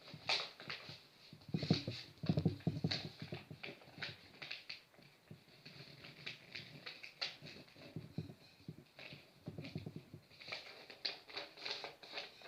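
A sheet of paper being handled and folded into a paper airplane: irregular crinkling and creasing clicks in clusters, with a few duller knocks as it is pressed against the table.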